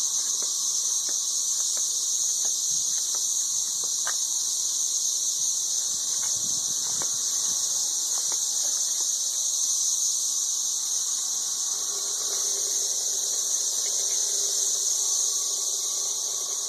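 Chorus of 13-year periodical cicadas: a ridiculously loud, steady high-pitched drone that holds without a break. A few faint ticks sit underneath it.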